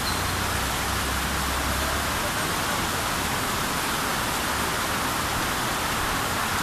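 Heavy rain pouring down in a steady, unbroken hiss of downpour.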